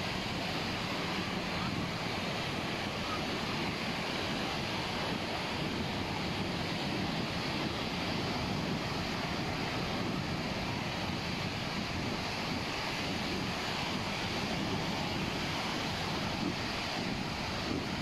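Steady wash of surf breaking on a beach, mixed with wind buffeting the microphone.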